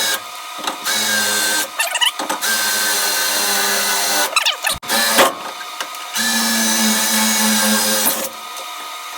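Electric drill motor running in several bursts of a second or two with short pauses between, as holes are drilled.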